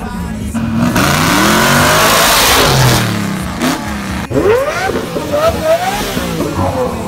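Supercar engines revving hard. There is a loud exhaust roar about a second in, then a car accelerating away with its engine pitch climbing in several rising sweeps.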